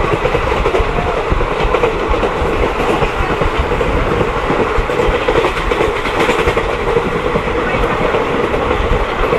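Passenger train running along the line, heard from on board: a steady rumble of the moving carriage with a constant hum.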